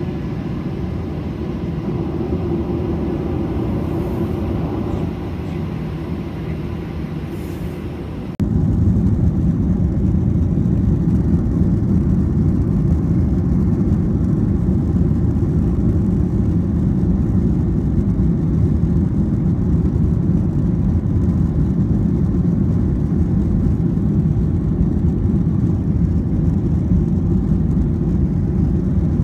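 Steady low rumble of an airliner heard inside the passenger cabin. About eight seconds in it jumps abruptly louder and deeper, then holds steady.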